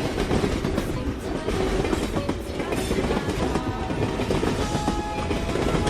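Train running along the track with a steady clatter of wheels over the rails.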